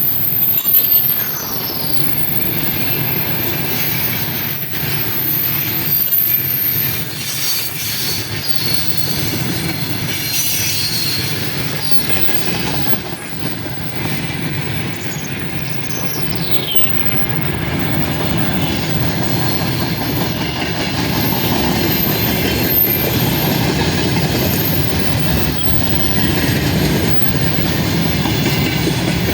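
Freight train rolling past: a steady rumble of wheels on rail with a thin, high wheel squeal, and a short falling squeal a little past halfway.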